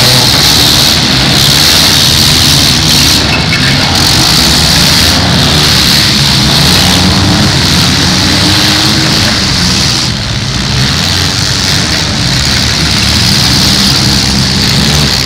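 Several compact cars' engines running hard and revving up and down together in a demolition derby, loud and continuous.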